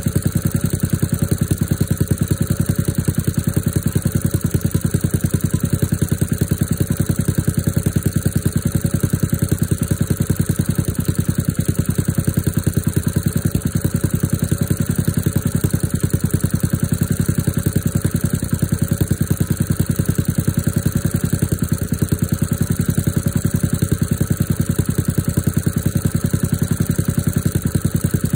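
Engine idling steadily shortly after a cold start in freezing weather, warming up, with an even, unchanging pulse.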